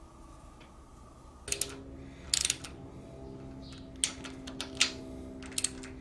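Sharp metal clicks of a wrench tightening a part on a lathe headstock, about one a second, starting after a quiet second or so, over a steady hum.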